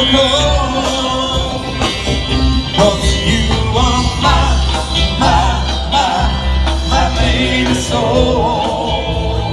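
Live band playing a song, with a singer over the band.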